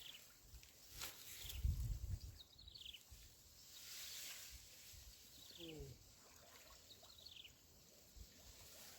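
Faint bird calls: short high notes falling in pitch, repeated every second or two, over a low rumble of wind or handling noise about a second in.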